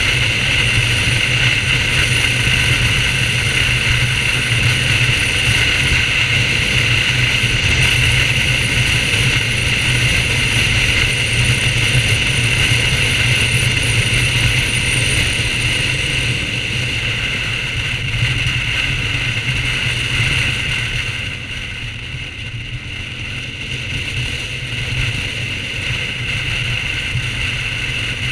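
BMW R1200GS flat-twin (boxer) engine running at a steady road speed, heard from the bike with wind noise over it; it eases off for a few seconds about three-quarters of the way through, then picks up again.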